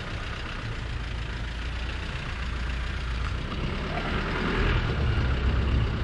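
A 4x4 vehicle's engine running at low revs as it crawls over a rocky trail obstacle, growing louder about four and a half seconds in.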